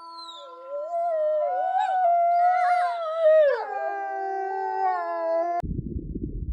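A dog howling: one long, wavering howl that slides down in pitch and is cut off suddenly about five and a half seconds in, after which a low rumbling noise starts.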